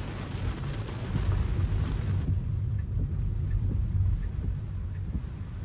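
Tyre and road rumble with rain noise inside an electric car's cabin while driving on a wet road. A loud rushing hiss, like water spray, cuts off suddenly a little over two seconds in, leaving the low rumble and faint regular ticks about one a second.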